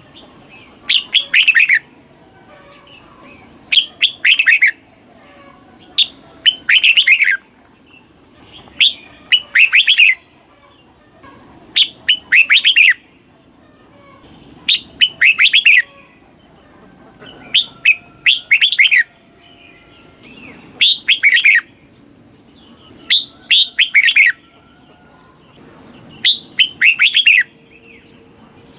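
Red-whiskered bulbul singing: about ten short, loud song phrases of roughly a second each, repeated every two to three seconds. This is the kind of recording played to caged bulbuls to stir them up.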